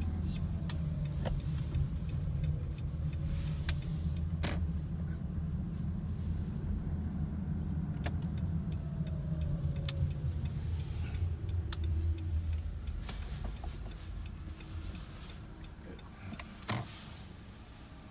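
Inside the cabin of a 2007 Toyota Camry Hybrid: a steady low rumble with a faint whine falling in pitch, the rumble dying away about twelve seconds in. A few sharp clicks, the loudest shortly before the end.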